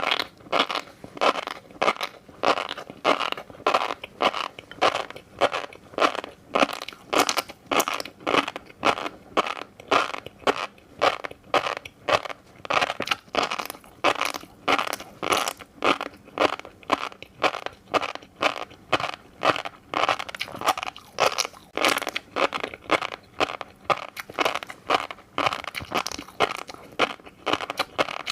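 Fish roe being chewed close to the microphone, in a steady rhythm of about two chews a second.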